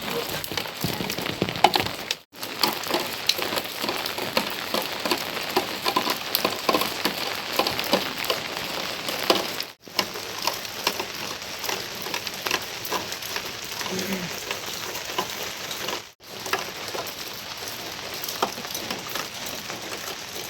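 Heavy rain falling steadily, a dense patter of drops. The sound cuts out for an instant three times.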